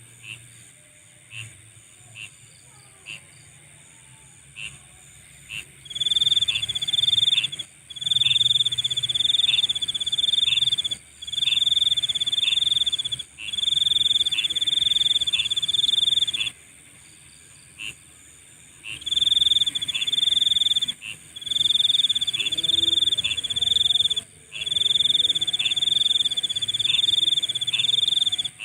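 Night insects calling: a few single short high chirps, then, from about six seconds in, a loud high trill in repeated bursts of one to two seconds with brief gaps. It pauses for a couple of seconds past the middle, over a fainter steady high chorus of other insects.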